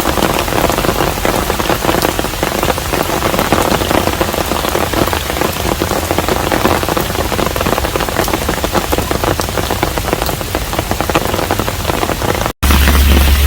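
Steady rain falling on a hanok, a dense patter of many individual drops. Near the end the sound cuts out for an instant and comes back louder, with a deep steady rumble underneath.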